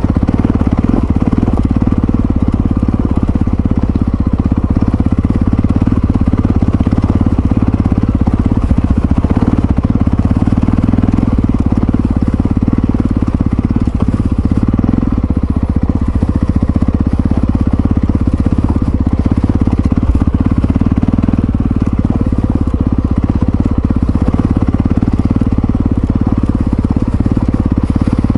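Yamaha XT660Z Ténéré's single-cylinder four-stroke engine running at a steady pace while the motorcycle is ridden, with no marked revving or shifting.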